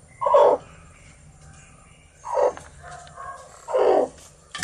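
An animal calling three times, each call loud, short and falling in pitch, spaced about a second and a half apart, with fainter short calls in between.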